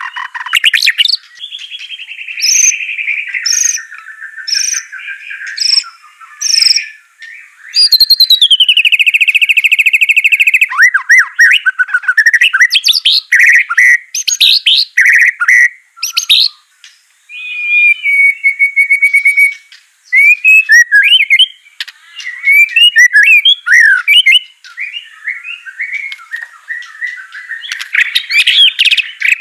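White-rumped shama singing a long, varied song: loud sliding whistles, fast trills and sharp repeated notes, with brief pauses between phrases.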